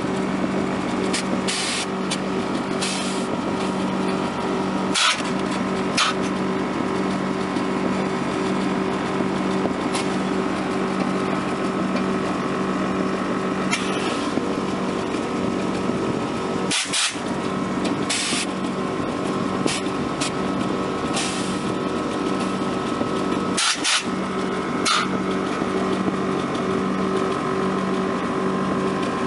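1964 Lincoln Continental's engine idling with a steady, even hum. A few short clicks sound over it.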